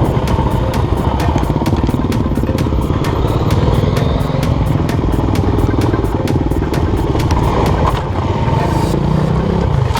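Enduro motorcycle engine running steadily as it rides a trail, over music with a steady beat.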